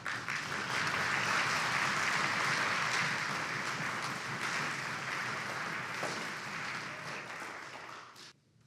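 Concert audience applauding, a steady clapping that swells, holds, and cuts off suddenly near the end.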